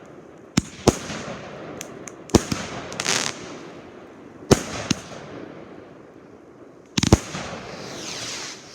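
Fireworks exploding: sharp bangs that echo around, one to two seconds apart, with a crackling burst about three seconds in and a quick cluster of bangs near the end.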